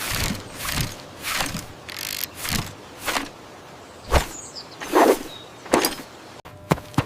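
A string of short, soft thumps and swishes, about one or two a second and uneven in strength.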